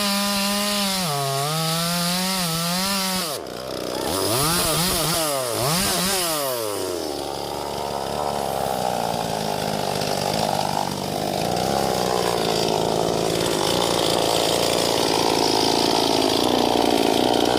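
Two-stroke chainsaws running on sengon wood. A steady high engine whine breaks off about three seconds in. The pitch then swoops up and down several times as the throttle is revved, and settles near the seventh second into steadier running with a rougher, grinding noise.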